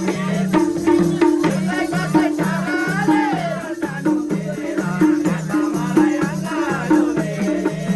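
Nepali dohori folk music: a steady low two-note figure repeating in an even rhythm under a wavering melody line.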